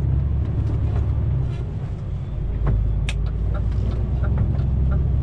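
DAF XF truck's diesel engine running steadily, heard from inside the cab, with a few light clicks over the drone.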